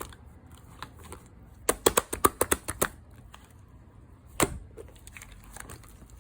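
Slime being mixed and pressed by hand, giving a quick run of about ten sharp sticky clicks and pops a couple of seconds in, then one more pop about two seconds later.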